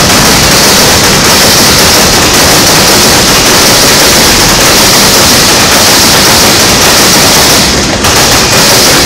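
Steel wheels of freight cars on a passing freight train rolling by close at hand: a loud, steady rumble and clatter on the rails, with a constant high hiss.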